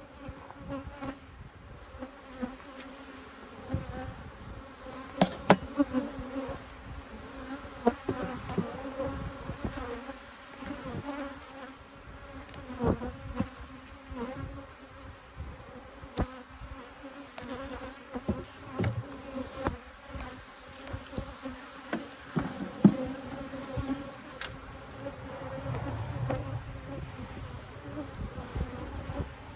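Many honeybees buzzing around an opened hive in a steady, continuous hum, the colony stirred up by the hive being taken apart and split. Scattered sharp knocks and clunks sound over the buzz, the loudest about a sixth of the way in, near the middle and about three-quarters through.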